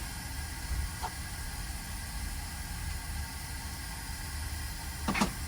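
Steady hiss and low hum of a fan running at a board-repair bench, with one short sharp knock about five seconds in.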